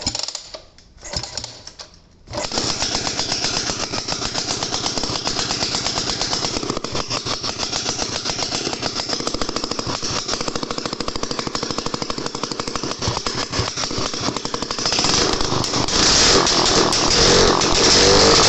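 Daihatsu Midget's DKA two-stroke single-cylinder engine catching after a couple of short sputters, then running with a fast, even firing beat. About fifteen seconds in it revs up and gets louder.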